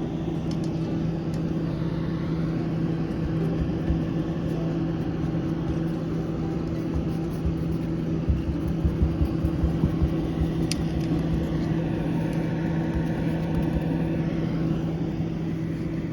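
A steady low machine hum over a constant rushing noise.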